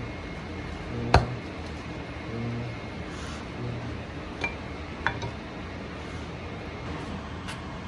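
A few sharp clinks and knocks of dishes or utensils, the loudest about a second in, over a steady background hiss.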